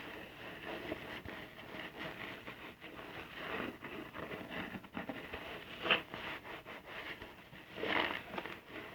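Soapy car-wash sponge being squeezed and worked, giving a wet squishing with crackling lather. There are louder squeezes about six seconds in and again near the end.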